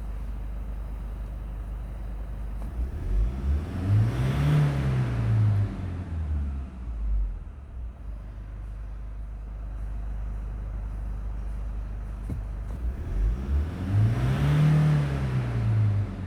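Toyota 2KD-FTV 2.5-litre four-cylinder common-rail turbodiesel idling, revved up twice, a few seconds each time, before settling back to idle.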